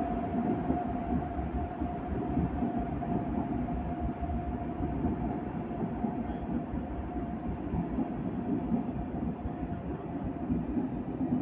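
Passenger coaches of an electric locomotive-hauled train rolling past along the platform: a steady rumble of wheels on rail, with a constant whining tone running through it.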